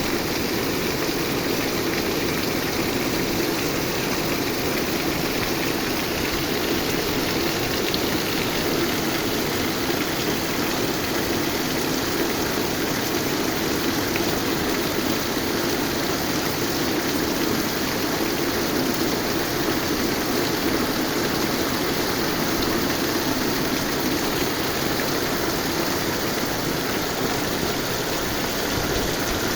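Rain falling steadily, an even, unbroken hiss with no let-up.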